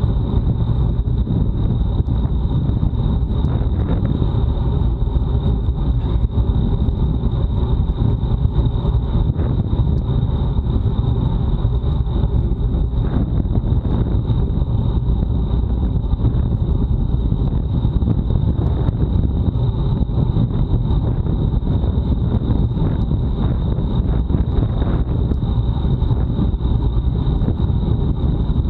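Wind rushing over an action camera's microphone on a road bike racing at time-trial speed: a steady, loud low rumble with a thin, steady high whine above it.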